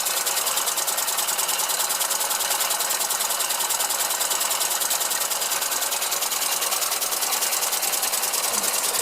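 Small model oscillating engine running steadily on compressed air, with a rapid, even beat, together with the clatter of the toy line shaft and tinplate toys it drives.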